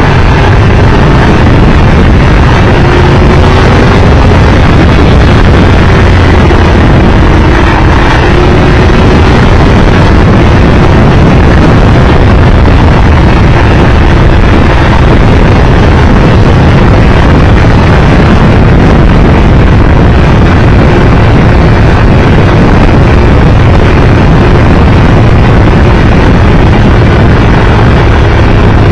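Triumph Tiger Explorer 1200's three-cylinder engine running steadily at road speed, under loud, constant wind and road noise.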